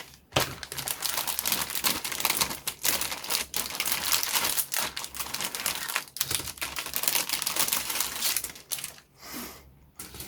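Thin plastic kit bag crinkling and crackling with rapid small clicks as it is worked open by hand. It dies down about a second and a half before the end.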